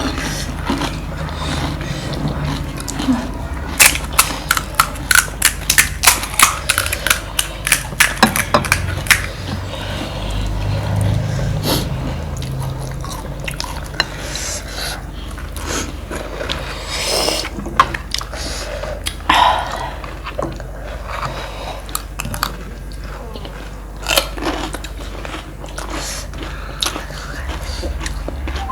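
Close-up eating of panipuri and chatpate, the crisp puris and puffed-rice snack crunching and being chewed. A quick run of sharp crunches comes a few seconds in, then quieter chewing with occasional crunches.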